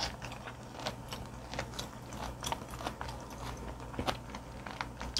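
Close-miked chewing of firm raw fish sashimi: a run of soft, irregular wet clicks and smacks from the mouth.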